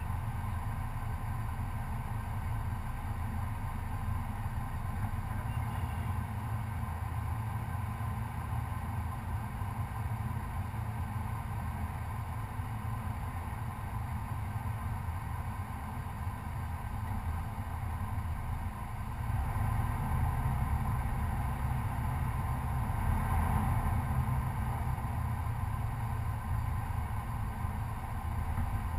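Chevrolet Colorado pickup's engine running steadily at low trail speed, a continuous low drone that grows louder about two-thirds of the way through.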